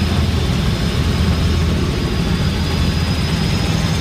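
Helicopter turbine and rotor noise heard from on board in flight: a steady, loud drone, with a faint high steady whine above it.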